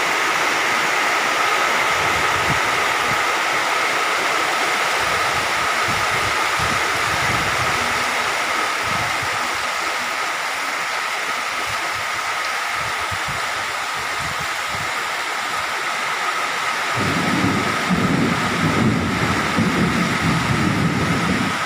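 Heavy rain falling steadily, a dense even hiss. Near the end a louder low rumbling joins in, uneven and fluttering.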